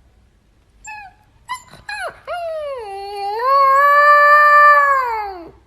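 A dog whimpering and howling: a few short yips, then one long howl that dips, rises and is held before falling away near the end.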